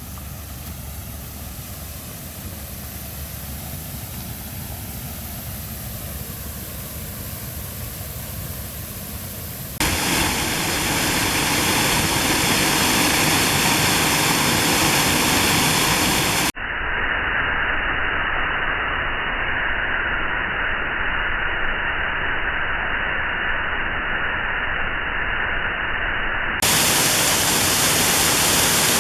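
Steady rushing of a small creek waterfall, an even hiss with no distinct events. It gets clearly louder about ten seconds in, and its tone changes abruptly twice more later on.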